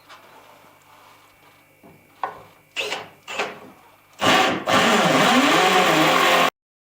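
Power drill working in timber: a couple of short trigger bursts that rise and fall in pitch, then a loud longer run with wavering speed that cuts off suddenly.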